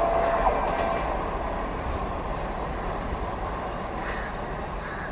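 Passenger train running away down the track, its wheel and rail noise fading steadily as it recedes.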